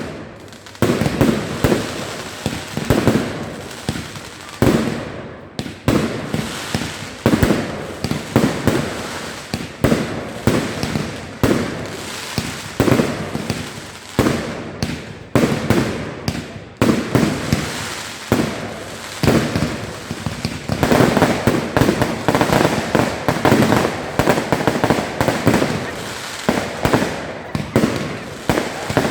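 Fireworks display: a rapid succession of shell bursts and bangs, often several a second, each with a rolling echo, thickening into a dense stretch of crackling reports about two-thirds of the way through.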